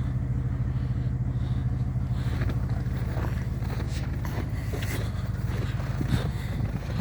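Heavy truck's diesel engine idling steadily with an even low throb. From about two seconds in, short irregular crunching and scraping noises sound over it.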